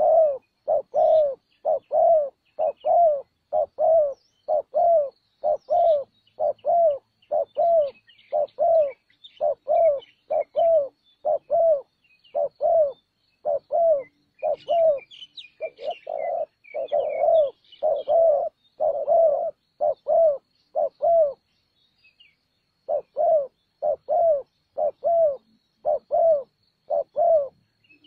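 Spotted dove cooing: a low coo note repeated steadily, about one every two-thirds of a second, with one short break near the end. Small birds chirp faintly in the background.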